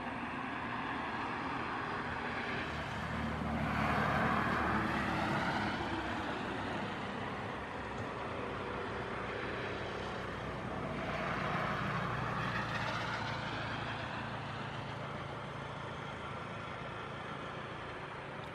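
Boeing 737-800's CFM56 jet engines running as the airliner taxis: a steady jet rush that swells twice, about four seconds in and again about twelve seconds in.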